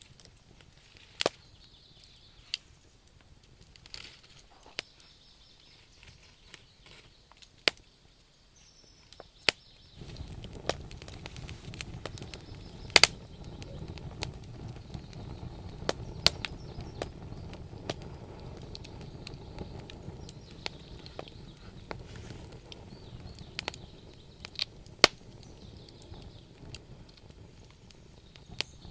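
Campfire burning, its logs crackling with sharp, irregular pops. About ten seconds in, a low steady rumble rises under the crackle and eases off near the end.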